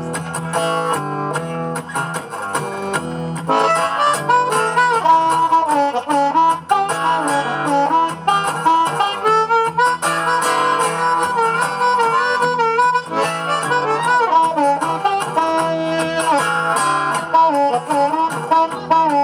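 Live instrumental song introduction: a bending lead melody played over guitar accompaniment and a steady low note.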